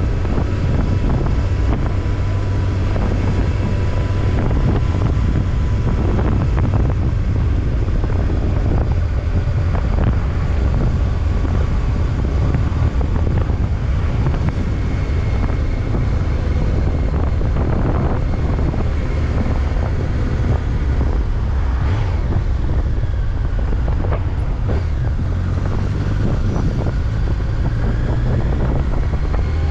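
Steady wind rushing over the microphone of a moving Honda CBR1100XX Blackbird motorcycle, with its inline-four engine and road noise running underneath.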